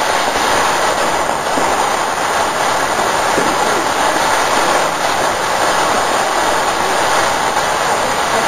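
Ground fountain firework spraying sparks: a loud, steady hiss with no bangs.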